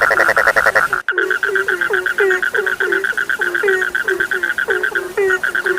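Chorus of frogs calling: a steady, rapid high trill under short, falling croaks repeated several times a second. A louder rattling call in the first second cuts off abruptly about a second in.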